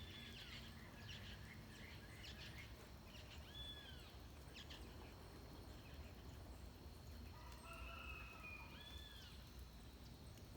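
Birds calling faintly over a low background hum: a short arched whistled call repeated three times a few seconds apart, scattered quick chirps in the first half, and a longer, lower call near the end.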